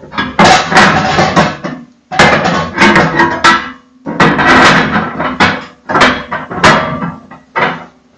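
Heavy cast-iron stove-fireplace parts clanking and scraping against each other and the grate as they are worked into their slots, in several bursts of clatter with sharp knocks.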